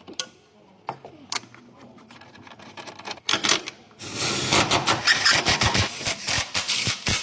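Scattered light clicks of tools and parts, then about four seconds in a wrench runs down the engine mount screw with a loud, rapid rattle of clicks.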